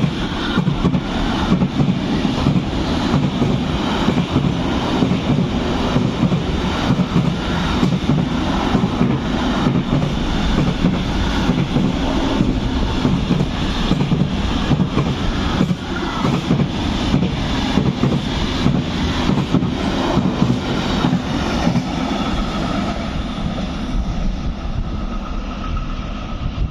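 Train passing through the station, a steady rumble of wheels on rail with a regular run of clicks as the wheelsets cross the rail joints.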